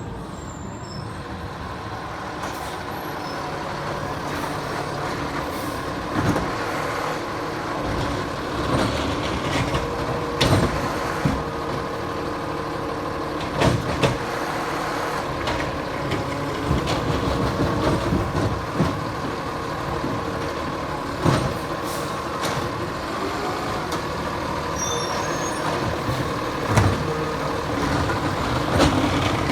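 Diesel McNeilus Zero Radius side-loader garbage truck running, with its engine steady under a continuous mechanical din. Several sharp knocks and bangs stand out every few seconds.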